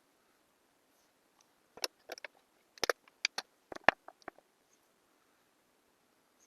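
A quick, irregular run of about a dozen small sharp clicks and taps, from hard objects handled on a work surface, bunched between about two and four and a half seconds in.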